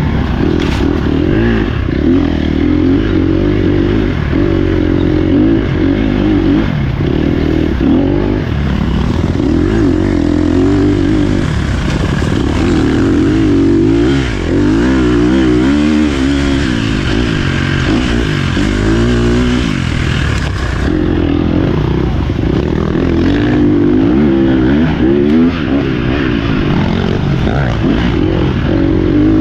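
Dirt bike engine being ridden hard, revving up and down, its pitch rising and falling over and over with throttle and gear changes.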